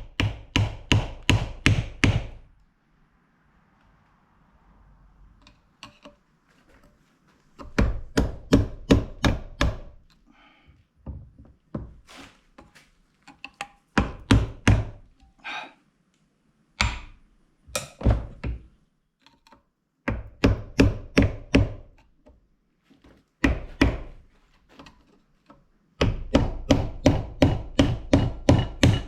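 Hammer striking a screwdriver to drive it under the old seal collar in a hydraulic cylinder gland, metal on metal, in quick bursts of about four blows a second with short pauses between bursts.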